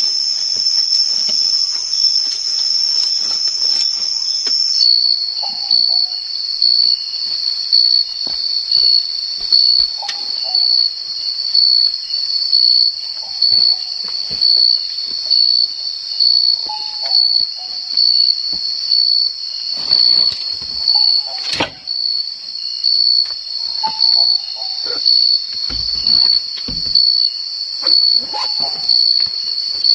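Insects shrilling in a steady, high-pitched chorus that steps down to a lower pitch about five seconds in. A fainter, lower call repeats every few seconds, and there is one sharp click about two-thirds of the way through.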